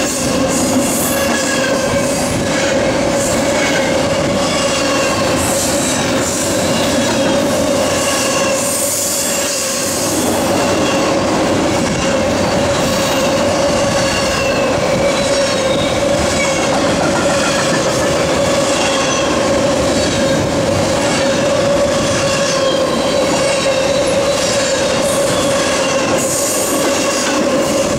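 Double-stack intermodal freight cars rolling past close by, a continuous steel-wheel rumble on the rails. Over it runs a steady high whine, with shorter squeals coming and going and scattered clicks.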